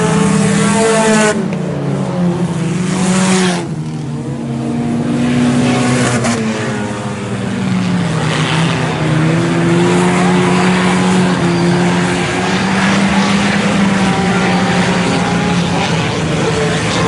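A pack of IMCA Sport Compact race cars running laps on a dirt oval, several four-cylinder engines revving up and down together as they go through the turns and down the straights.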